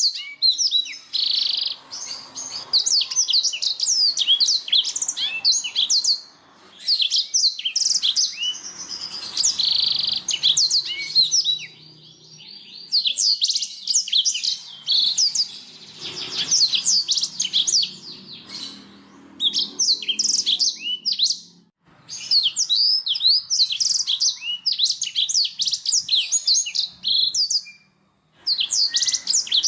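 Canary singing: long phrases of rapid high chirps and trills, several seconds each, broken by short pauses.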